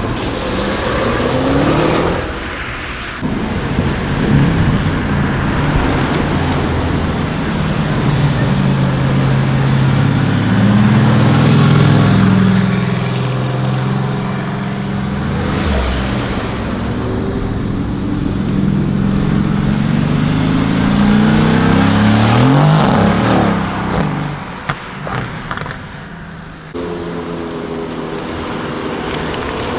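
Modified car engines revving and accelerating, with cars passing close by, their pitch sweeping up and then dropping as they go past. There is a sudden change in the sound about 27 seconds in.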